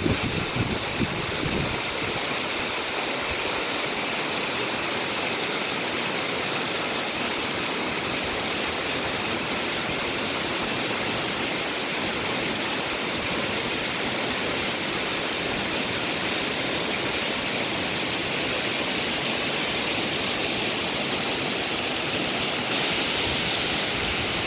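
Waterfall rushing: a steady, even roar of falling water. The sound changes slightly near the end.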